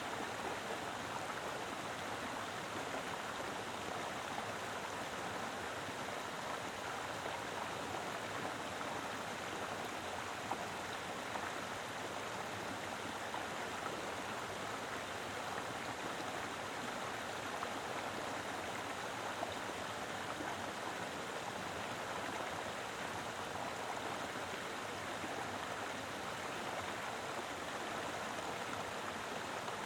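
A mountain river flowing over rocks: a steady, dense rush of water with no pauses or changes.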